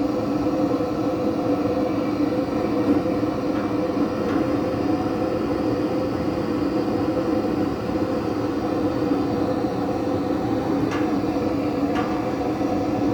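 A steady, unbroken drone with a constant low hum, with two faint clicks near the end.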